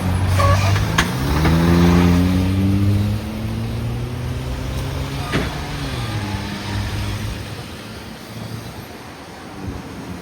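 A road vehicle's engine accelerating, rising in pitch over the first two seconds, then running on more steadily and fading away over the last few seconds.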